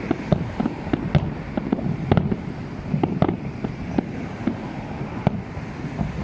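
Fireworks display: an irregular series of bangs, about three a second, over a steady low rumble.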